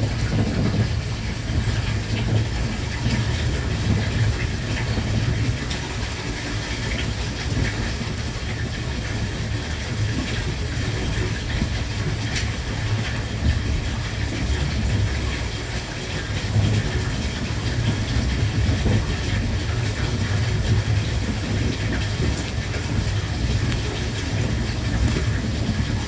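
Running noise of the Thunderbird limited express electric train heard from inside the carriage: a steady low rumble of wheels on rail with a hiss above it and now and then a faint clack over the rail joints.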